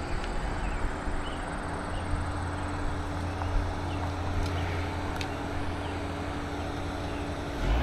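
Steady wind and rolling noise while riding a bicycle, with a low rumble.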